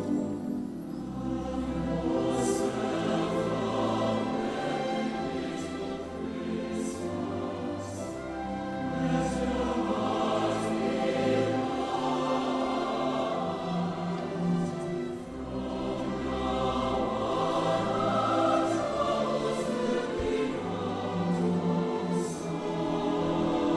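Vocal ensemble singing a slow song in sustained chords, with sung 's' consonants standing out as brief hisses several times.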